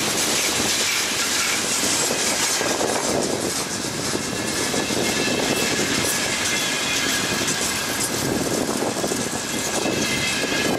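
Freight wagons rolling past close by: a steady rumble and rattle of wheels on the rails, with a faint high wheel squeal that grows toward the end.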